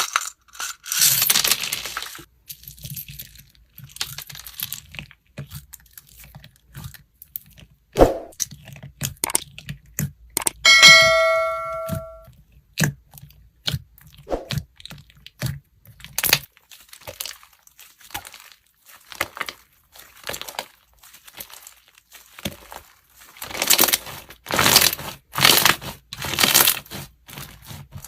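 Slime being squeezed and poked by hand, making irregular crackling clicks and pops. A chime rings once for about a second and a half around eleven seconds in.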